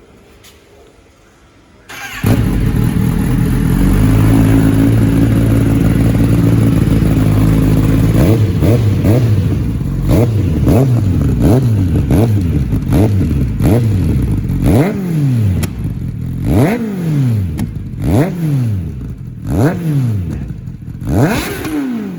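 A Kawasaki ZX-10R's inline four-cylinder engine, breathing through a freshly fitted aftermarket SC-Project exhaust, starts about two seconds in and idles steadily. It is then blipped again and again, each rev a quick rise and fall in pitch, with the blips coming further apart and sharper toward the end.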